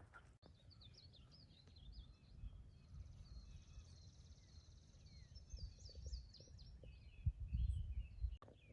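Several songbirds chirping and singing, short quick notes and gliding calls overlapping. Underneath is a low rumble that swells a few times near the end.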